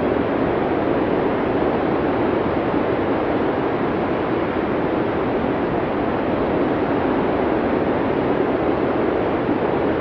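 Blizzard wind ambience: a steady, low rushing noise with no distinct gusts or other sounds.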